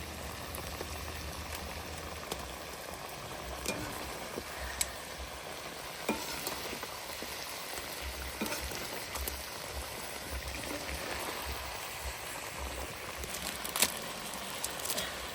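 Chicken pieces cooking in spices and mustard oil, sizzling steadily in a covered pot, with a few sharp clicks; the loudest click comes near the end.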